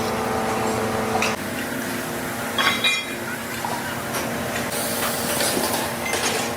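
Workshop machinery humming steadily, with the hum dropping off about a second and a half in. A short metallic clink rings out near the middle, followed later by a brief spraying hiss.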